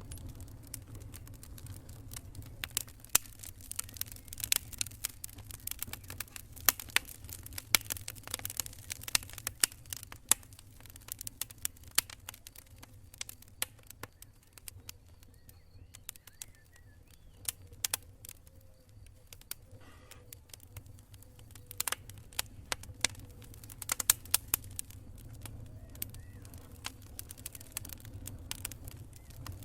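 Wood campfire crackling: frequent irregular sharp pops and snaps, some much louder than others, over a low steady rumble.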